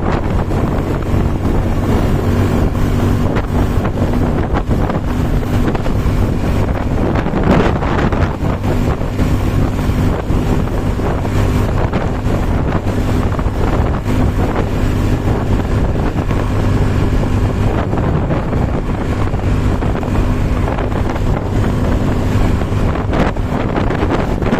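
An engine running at a steady hum under constant loud wind buffeting on the microphone.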